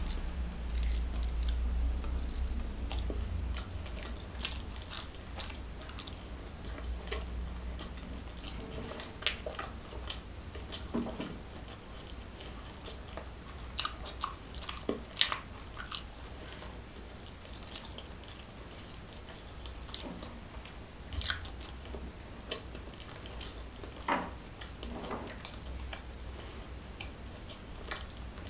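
A person chewing a mouthful of food close to the microphone: irregular wet mouth clicks and smacks, a few of them louder.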